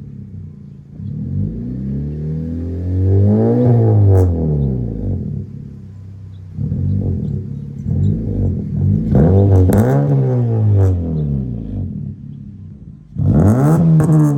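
A 2012 Honda Civic's 1.8-litre four-cylinder revved three times through an aftermarket exhaust: the pitch climbs and falls twice, then jumps sharply in a quick blip near the end. A few sharp pops sound from the exhaust around the tops of the revs and as they drop.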